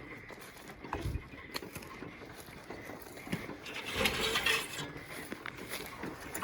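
Footsteps and brush rustling while hiking, with scattered light knocks and clicks, possibly from the carried metal panel. The rustling swells about four seconds in.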